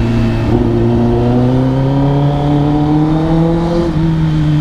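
2022 Kawasaki ZX10R's inline-four engine through an Arrow Indy Race exhaust, pulling steadily with its pitch slowly climbing. The pitch eases off slightly about four seconds in.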